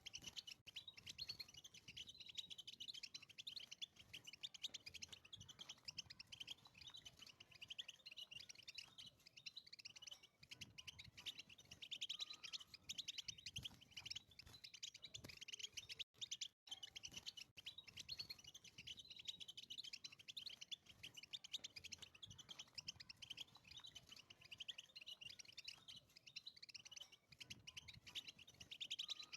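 European goldfinch singing a faint, rapid, continuous twittering song of quick chirps and trills. There are two brief breaks about halfway through.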